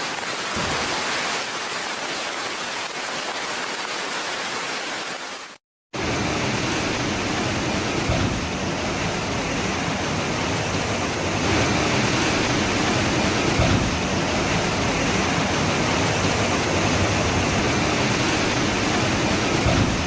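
Steady rushing of water. It cuts out for a moment about six seconds in and comes back fuller and deeper.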